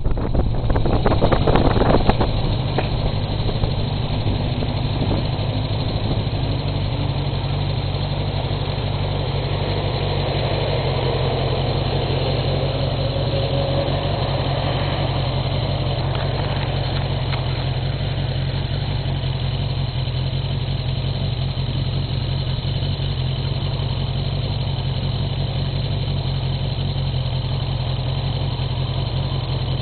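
Motorcycle engine running steadily, heard from on board, with wind buffeting the microphone for the first couple of seconds.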